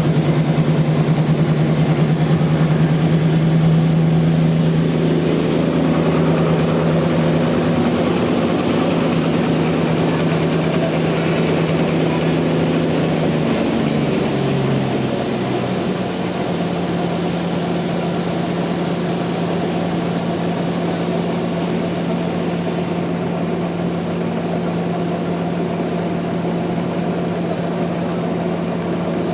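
Sawmill machinery running steadily with a strong low hum. About halfway through, its pitch dips briefly and then settles slightly higher.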